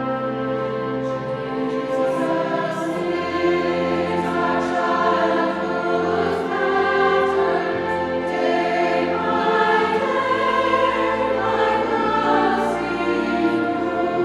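Choir singing sacred music with an orchestra accompanying, in long held chords that grow louder about two seconds in.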